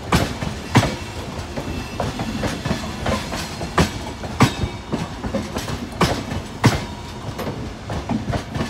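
Passenger coaches of an express train rolling past close by, their wheels clacking over rail joints in sharp clicks every half second to a second over a steady rumble.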